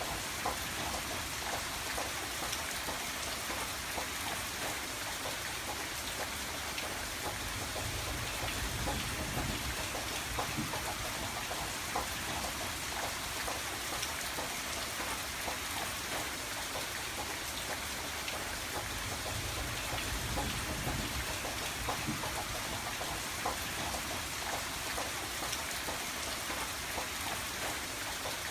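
Rain falling on window glass: a steady hiss with many small, sharp drop ticks scattered through it. A low rumble swells and fades twice beneath it.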